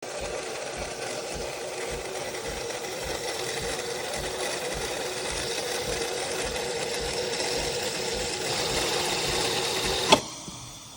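De'Longhi Magnifica Start bean-to-cup espresso machine running a steady mechanical whirr for about ten seconds. It stops with a sharp click near the end.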